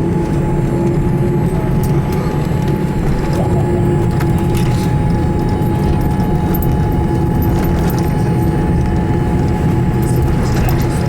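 Boeing 787-8 cabin noise while taxiing after landing: a steady, loud rumble with a steady hum, and scattered light clicks and rattles from the cabin fittings.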